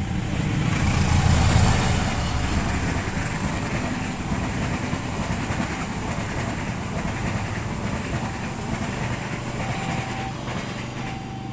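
A train passing close by: the steady rumble and rattle of its wheels on the rails, loudest about a second or two in and then running on evenly.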